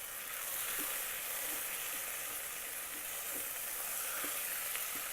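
Onion, ginger-garlic paste and tomato frying in the Instant Pot's inner pot on sauté, giving a steady sizzling hiss with a few faint ticks.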